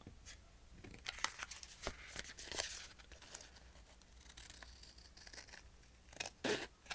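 Scissors snipping through scrapbook paper in a run of short cuts, with paper rustling, mostly between about one and three seconds in and again near the end.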